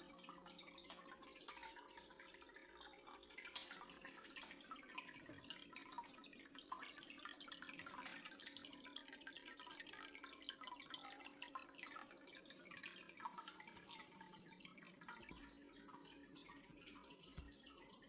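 Faint water dripping and trickling, many small drips throughout, over a low steady hum.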